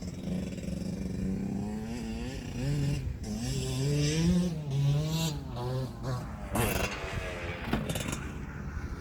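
KTM 65SX 65 cc two-stroke motocross bike engine revving as it is ridden, its pitch rising and falling with the throttle and loudest around the middle.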